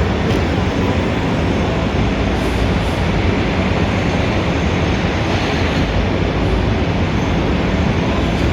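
Dense city traffic ambience: a steady, loud wash of low rumble and hiss with no single vehicle or event standing out.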